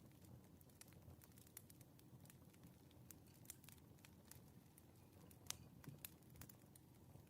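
Faint crackling of a wood fire: irregular sharp pops and snaps over a low steady rumble, one louder pop about five and a half seconds in.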